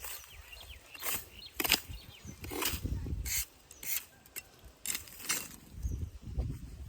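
Irregular knocks and scraping on dry wood, about one to two a second, from working on a coconut palm to clear it of old fronds and debris.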